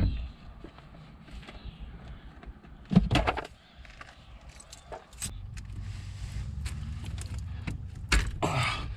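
Scattered knocks and clicks of hands working around a car's interior trim while reaching for a relay, with a louder thump about three seconds in and another near the end. A low steady rumble comes in about halfway through.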